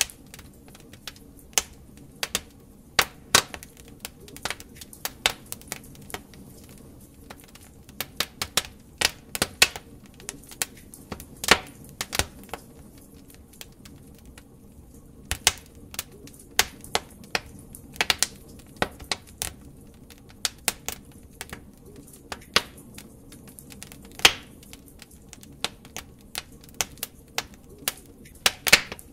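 Wood fire in a fireplace crackling: burning logs giving irregular sharp pops and snaps, sometimes in quick clusters, over a low steady rush of flame.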